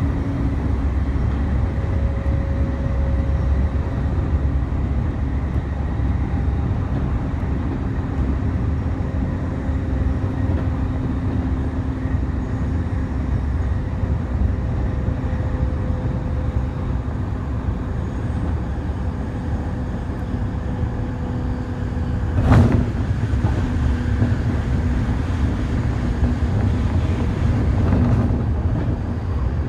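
Running sound of a JR East E531 series electric train heard from inside the car at speed: a steady low rumble of wheels on rail with a faint steady hum. A single sharp thump comes about 22 seconds in.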